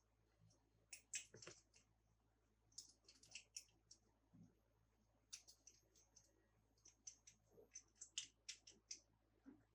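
Faint, irregular light clicks and taps of small toy cars and their plastic packaging being handled.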